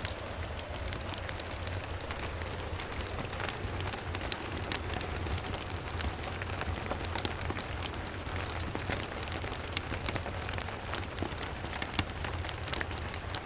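Steady rain falling, mixed with a crackling wood fire: many sharp little clicks and pops scattered through the hiss, over a low steady rumble.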